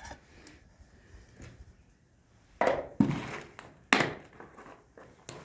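Handling noise from ingredient packages and containers: three loud, short rustling and knocking sounds about halfway through, with fainter handling before and after.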